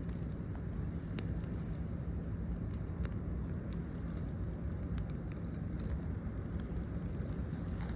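Campfire burning, with irregular sharp crackles and pops scattered over a steady low rush.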